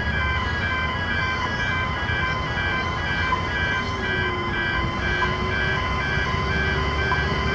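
Level crossing pedestrian gate alarm beeping, a pulsing electronic tone of several pitches at about two beeps a second, sounding for an approaching train. Behind it the soft Barker Technics electronic crossing bells tick about every two seconds, and traffic rumbles. A lower steady tone joins about halfway through.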